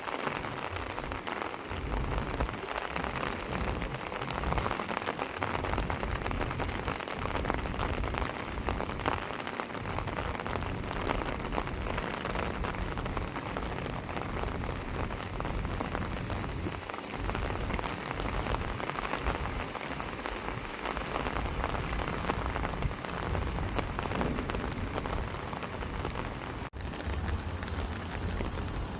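Steady rain falling, an even dense hiss of drops, with an uneven low rumble underneath.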